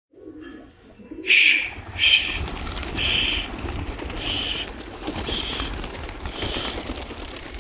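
Birds calling outdoors, with a higher call repeating about once a second over a steady low rumble.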